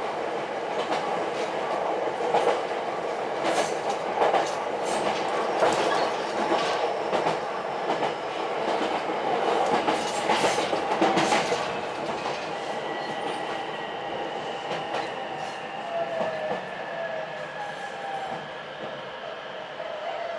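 Ichibata Electric Railway 7000-series electric train running along the line, its wheels clicking over rail joints with steady rolling noise. From about twelve seconds in the clicks thin out, the running gets a little quieter, and a thin, steady high whine comes in.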